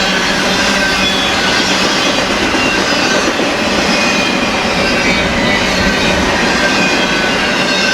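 BNSF freight train cars rolling past close by: a steady, loud rumble of steel wheels on rail, with thin high squealing tones from the wheels wavering above it.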